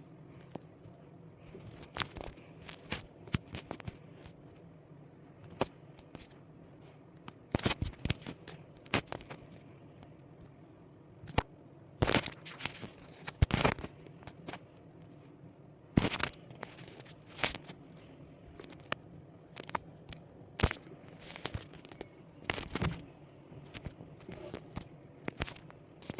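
Irregular clicks, knocks and short scrapes, as of small hard objects being handled, over a faint steady low hum.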